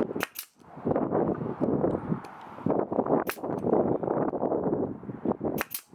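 Pneumatic nail gun firing into wood: sharp, short shots, two near the start, one in the middle and two in quick succession near the end, with irregular rattling noise between them.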